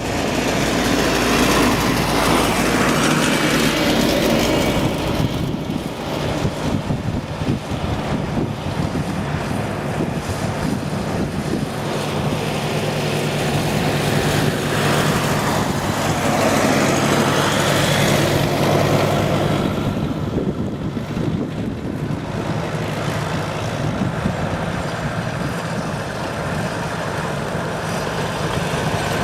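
Farm tractor engines running steadily, the overall noise rising and falling over the stretch.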